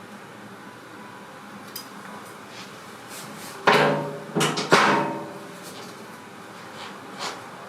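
Three sudden metallic clanks in quick succession about halfway through, each ringing briefly, over a quiet steady background.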